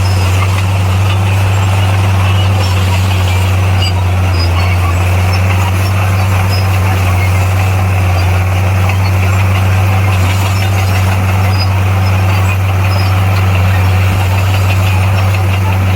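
Bulldozer's diesel engine running at a steady speed, a constant low drone that stays unchanged throughout.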